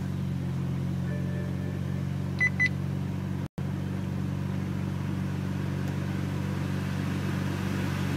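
BMW car engine idling steadily just after a start. Two short high beeps come about two and a half seconds in, and the sound cuts out for a split second about a second later.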